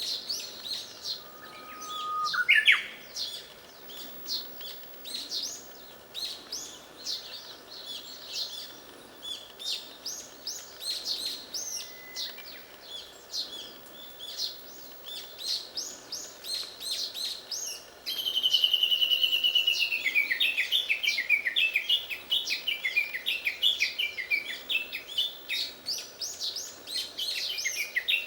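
Japanese bush warbler singing amid constant high twittering chirps. About two seconds in comes a held whistle that sweeps sharply upward. From about two-thirds of the way through, a loud long note slides down into a rapid run of repeated notes that goes on to the end.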